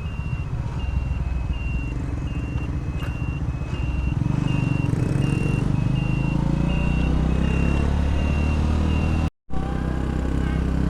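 Small single-cylinder motorcycle engine running, its note growing louder about four seconds in, under a steady electronic beeping about twice a second from a turn-signal beeper. The sound cuts out briefly near the end.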